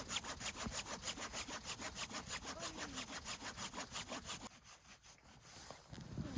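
Hand saw cutting through wood in quick, even back-and-forth strokes that stop about four and a half seconds in.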